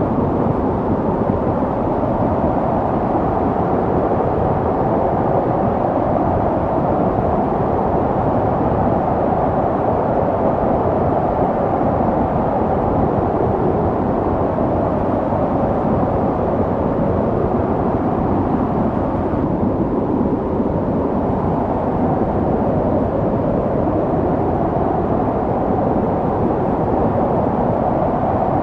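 Snowstorm wind: a steady, dense rush that stays low in pitch, with no distinct gusts or breaks.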